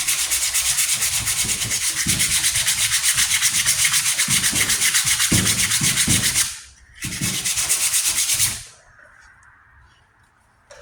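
Sandpaper rubbed by hand in quick back-and-forth strokes over the primed steel patch of a pickup tailgate, making a coarse rasping. It pauses briefly about two-thirds of the way in, resumes, then stops near the end.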